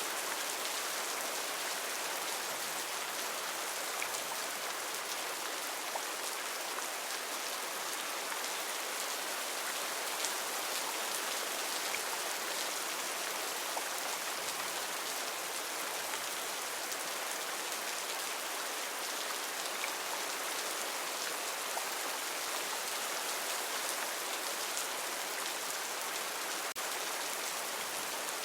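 Heavy rain falling steadily on rainforest foliage, a dense even hiss with scattered individual drop ticks.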